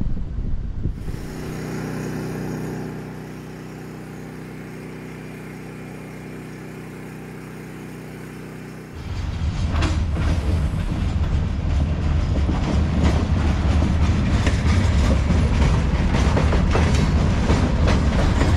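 A steady low hum with several pitches, then, from about nine seconds in, ballast hopper cars rolling past close by: a loud low rumble of steel wheels on rail with rapid clicks over the joints.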